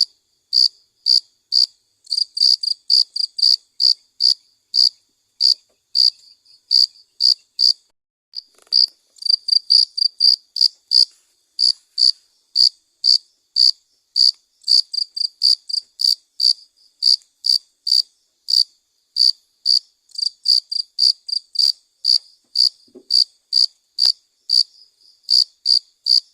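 Cricket chirping: short, loud, high chirps repeated several times a second in irregular runs with brief pauses between them.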